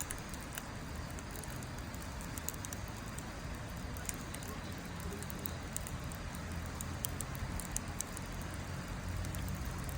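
Wood fire burning in a Snow Peak Takibidai L steel fire pit, crackling with scattered sharp pops over a steady low rumble.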